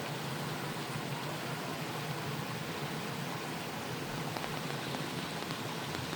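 Steady, even rushing of a flowing stream.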